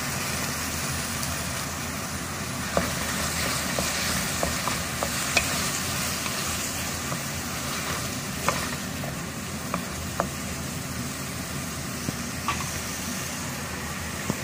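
Chopped tomatoes and onions sizzling in hot oil in a pan while a spatula stirs them, with scattered sharp clicks and scrapes of the spatula against the pan.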